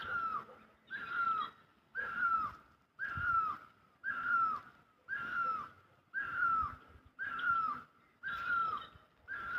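A bird calling the same short note over and over, about once a second, each call dropping in pitch at its end.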